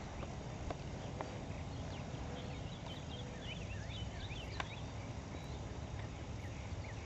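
Small birds chirping in a flurry of quick rising and falling notes, busiest in the middle, over a steady low rumble, with a few faint clicks.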